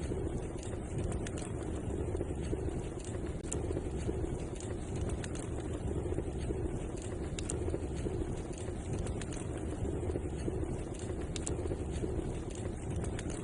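Wood fire crackling: scattered sharp pops and snaps, a few each second, over a steady low rumble of the burning fire.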